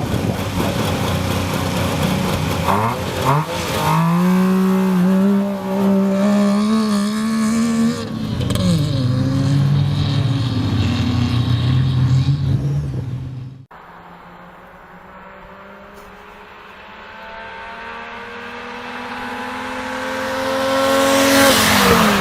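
Three-cylinder car engine accelerating hard, its pitch climbing and dropping back several times as it revs and shifts. After a sudden cut, a car approaches, getting steadily louder, and its pitch drops as it passes near the end.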